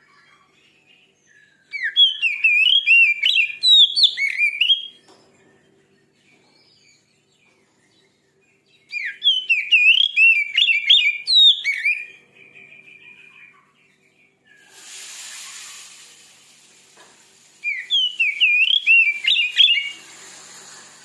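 Oriental magpie-robin (kacer) singing three bursts of rapid, varied whistled phrases, each two to three seconds long. A short stretch of hiss comes before the last burst.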